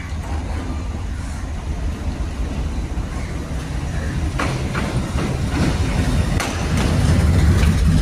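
A train running on the rails: a steady low rumble, getting louder, with a series of sharp knocks from about halfway through.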